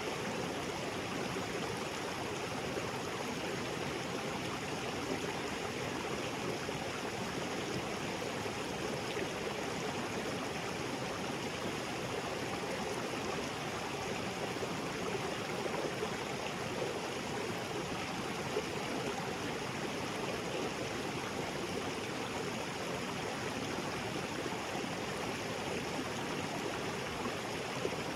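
Small waterfall splashing into a rocky creek: a steady, unbroken rush of falling and flowing water.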